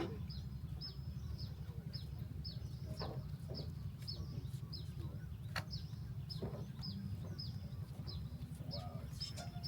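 A bird calling a short, slightly falling chirp over and over, about two or three a second, over a steady low rumble.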